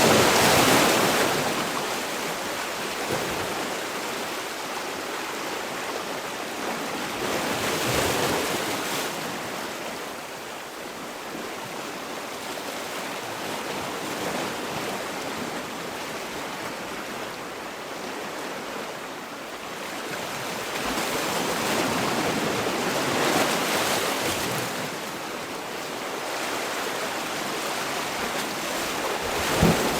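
Sea waves breaking and washing on the shore, the surf swelling and easing every several seconds, with louder breakers near the start, around eight seconds in, in the low twenties and at the end.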